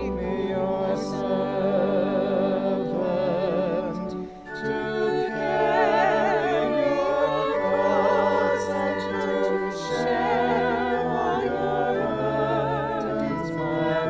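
Voices singing a hymn with vibrato over a sustained, steady accompaniment, with a brief break between phrases about four seconds in.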